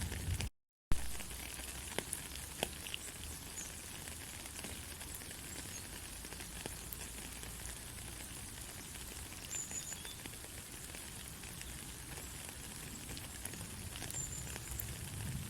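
Steady rain falling, an even hiss with scattered small drops ticking. Under a second in the sound cuts out to silence for a moment and comes back with a sharp click, an edit splice in the recording.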